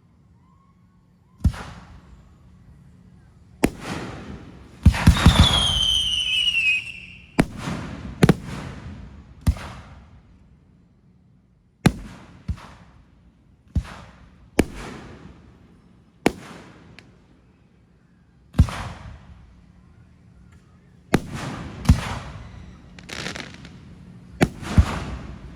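Fireworks display: sharp bangs every one to three seconds, each trailing off in an echo. About five seconds in there is a two-second burst of dense crackling with a whistle falling in pitch.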